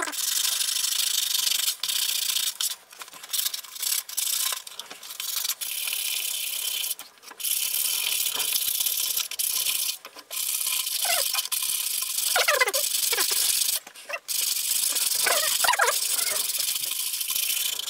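Hand wet-sanding of a cylinder head's gasket face with sandpaper and engine oil: steady scratchy rubbing strokes with a few short pauses, and several brief squeaks in the second half.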